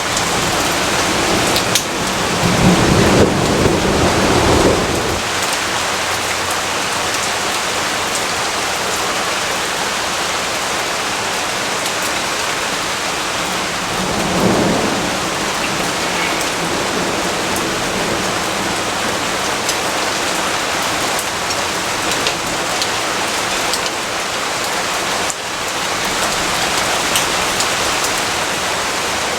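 Steady rainfall with a low rumble of thunder a couple of seconds in, the loudest moment, and a fainter rumble about halfway through.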